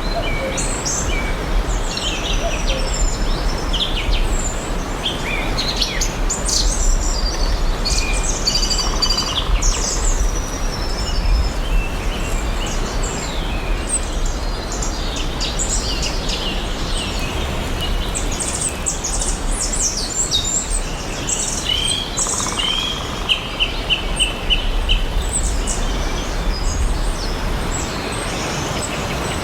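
Several small songbirds chirping and trilling over a steady background hiss, with calls overlapping, most busily in the first half and again a little after the middle. About two-thirds of the way through, one bird gives a quick run of repeated notes.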